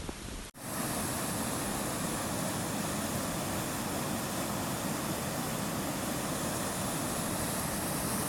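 Steady rushing of flowing water, an even unbroken noise, after a brief cut in the sound about half a second in.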